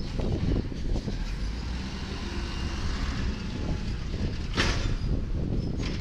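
Volvo automated side-loader garbage truck's diesel engine running with a steady low rumble, and a short hiss about four and a half seconds in.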